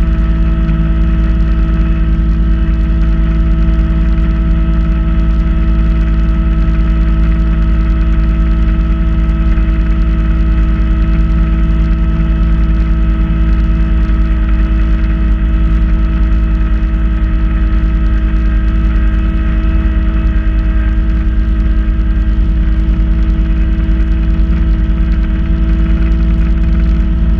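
Kubota B2650 compact tractor's diesel engine running at a steady speed, driving a front-mount snow blower: a loud, constant hum with a steady whine and no change in pitch.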